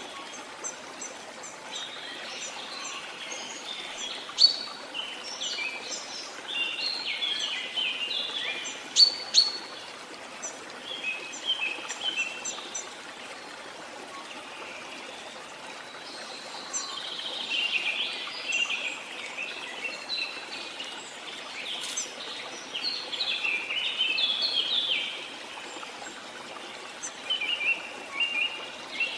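Several birds singing in phrases of quick chirps and trills that come and go, over a steady rush of flowing water.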